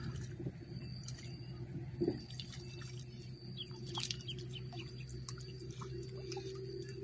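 Birds chirping sporadically in short calls, busiest about four seconds in, over a steady low hum, with a few drip-like ticks.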